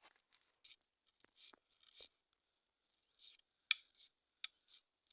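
A series of soft, irregular clicks and rustles from small objects being handled, with the sharpest click about two-thirds of the way in.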